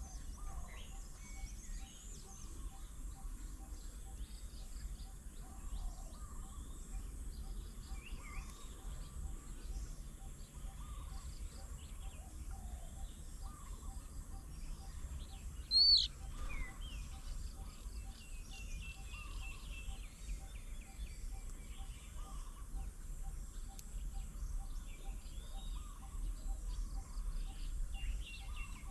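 Several wild birds calling and chirping, with one loud rising call about sixteen seconds in. Throughout, a low single note repeats evenly two or three times a second over a steady low background rumble.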